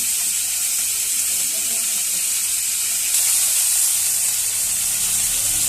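Steady sizzling of food frying in hot oil in a pan, a little louder about three seconds in.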